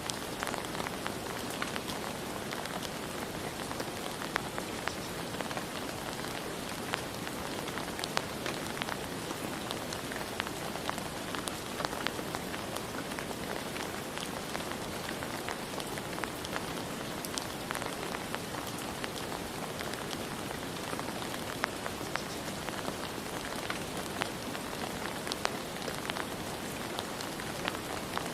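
Steady rain falling, with many separate drops ticking sharply on a hard surface over the even hiss.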